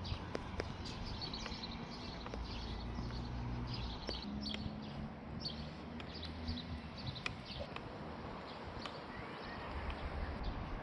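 Small birds chirping with short, repeated calls over a low hum, with scattered sharp clicks.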